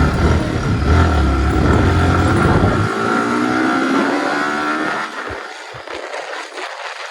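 Motorcycle running while being ridden, with heavy wind rumble on the microphone. The rumble drops away about three seconds in, the engine note holds for a couple of seconds, then the sound turns quieter about five seconds in.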